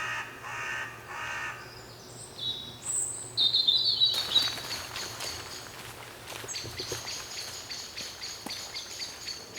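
A crow cawing about three times, then small birds calling with high, thin chirps over woodland ambience with scattered light ticks.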